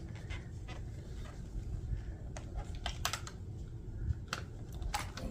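Scattered light plastic clicks and taps as the dust container of a handheld bed vacuum is handled and its end cap worked loose to reach the filter.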